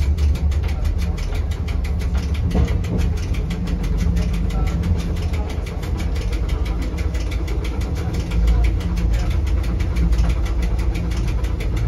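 Electric rack-railway train on the Rigi running along the track, heard from inside the driver's cab: a steady low rumble of the motors and running gear, with a fast, even clicking throughout.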